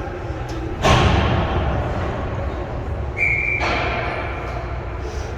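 A loud thump about a second in, with an echoing tail, then a short single-note whistle blast about three seconds in, followed by a smaller knock. Underneath is a steady low hum, typical of an ice rink during a broomball game.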